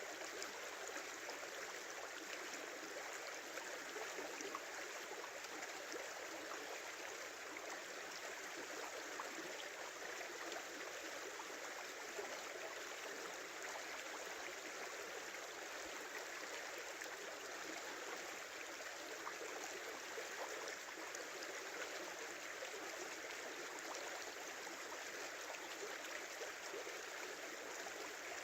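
Small river flowing in a steady, even rush of water, with faint gurgling, its banks in snow and ice.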